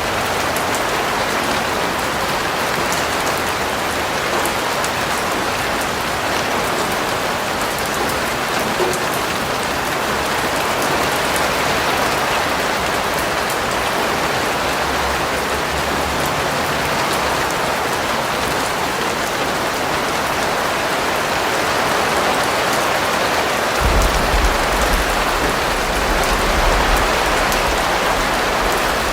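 Steady, heavy rain falling, a dense even patter. A low rumble joins in near the end.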